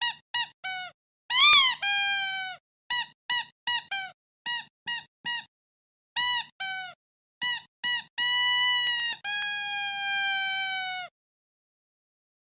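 Squeaky dog toy being squeezed over and over: short high squeaks in quick groups, with a few long drawn-out squeaks of a second or two near the end, each sagging in pitch as it ends.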